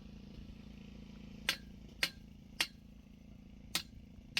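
Sharp taps of a hard tool, each with a brief ring: three about half a second apart, then two more after a short pause, over a low steady hum.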